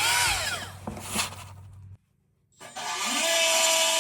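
Die grinder spinning up with a rising whine and then running at a steady high speed, very loud. Before it, about two seconds of a sound that sweeps up and down in pitch, cut off abruptly.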